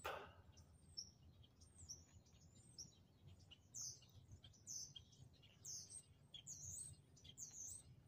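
Small birds chirping faintly: a run of short, high chirps, many sliding quickly downward, that come thicker from about three and a half seconds in.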